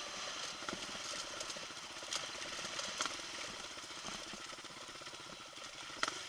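Off-road motorcycle engine running steadily at low speed on a rocky trail, with a few sharp knocks about two, three and six seconds in.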